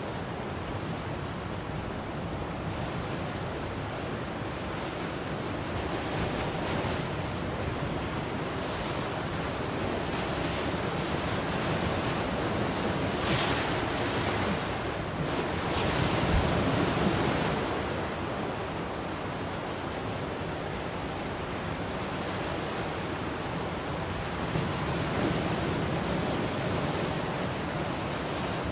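Ocean waves breaking and washing on the shore in a steady rush, swelling louder in the middle, with some wind on the microphone.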